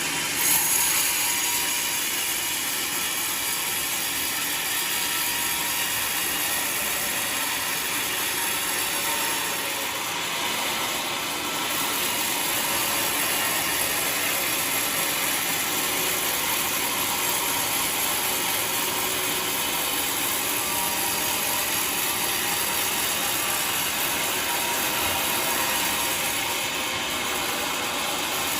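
Homemade sawmill running steadily, its blade cutting through a waru log with a continuous mechanical rattle.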